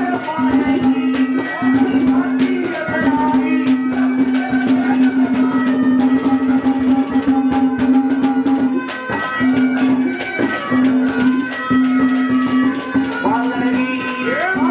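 Haryanvi folk instrumental music: a steady held drone note with a melody played above it, over quick hand-drum strokes. The drone breaks off briefly a few times.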